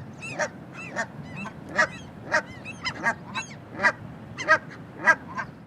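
Canada geese honking: a rapid series of short, arched honks, about two or three a second, some overlapping.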